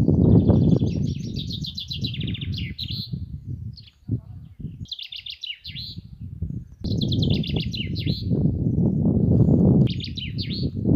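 A songbird repeating a rapid, trilled song, four phrases each ending in quick falling notes, over a loud low rumbling noise.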